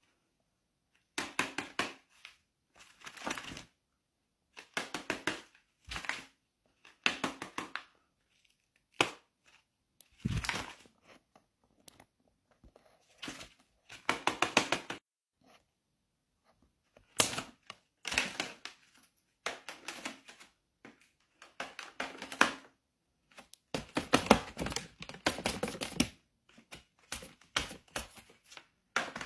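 Stiff folded paper crinkling and rustling in short bursts of fast clicking crackle with silent gaps between them, as a paper dragon puppet is worked.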